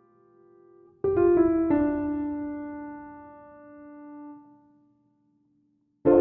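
Background piano music: a soft chord with a few quick notes about a second in, ringing out and fading to silence, then a new phrase starting near the end.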